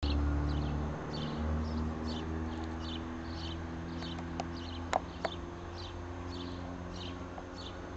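Low, steady hum of a train's locomotive on the line. A short high chirp repeats about twice a second over it, and a few sharp clicks come near the middle.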